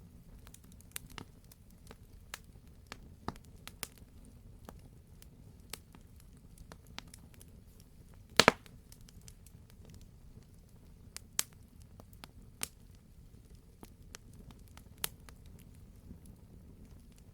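Wood fire burning in a fireplace: scattered sharp crackles and pops over a low steady rumble, with one loud double pop about halfway through.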